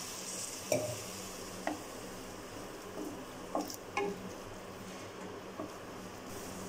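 Onion-tomato masala sizzling in oil in a nonstick kadai, with a little water just added, while a flat plastic spatula stirs it. A few short scrapes and taps of the spatula against the pan stand out over the steady sizzle.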